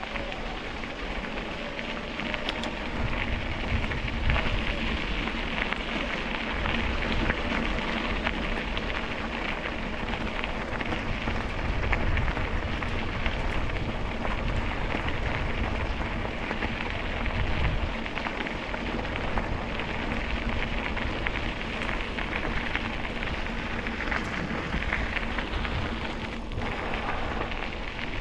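Ride noise from a GoPro on the move: a steady crackling haze like tyres running over a rough towpath, with wind gusting on the microphone in low rumbles and a faint steady hum underneath.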